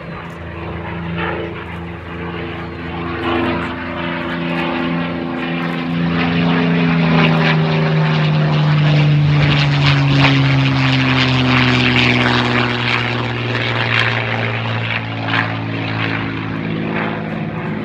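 P-51D Mustang's Packard Merlin V-12 engine droning as the fighter flies past: the engine grows louder, is loudest about ten seconds in, and drops in pitch as it goes by.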